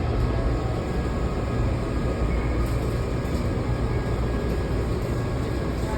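Steady low rumble and hum inside a Washington Metro railcar.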